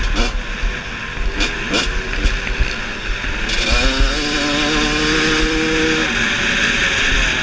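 Trail dirt bike engine revved in short blips, then its pitch climbs and is held high for a couple of seconds before dropping back, with a steady hiss coming in about three and a half seconds in.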